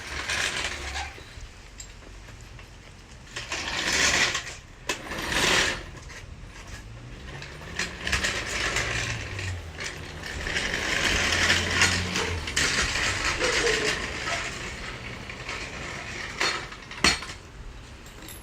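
Hand tools working on a car's wheel and strut: ratchet-like clicking and metal clinking in several bursts, with a longer run of ratcheting in the middle and a few sharp clinks near the end.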